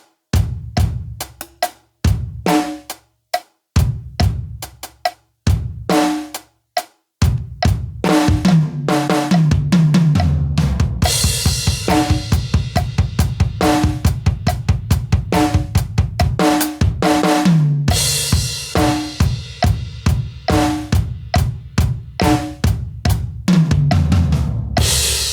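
Acoustic drum kit played at a slow tempo: a few spaced strokes, then from about seven seconds in a steady groove of bass drum, snare and hi-hat. Tom fills falling in pitch lead into crash cymbals three times, and the last crash rings on at the end.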